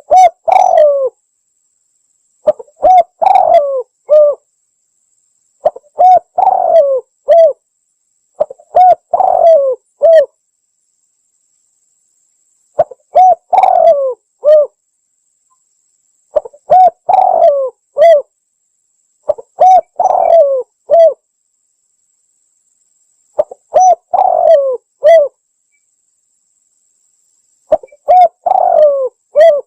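Spotted dove cooing: a short phrase of several coos repeated nine times, about every three seconds, with dead silence between phrases. It is a looped lure recording meant to call doves in.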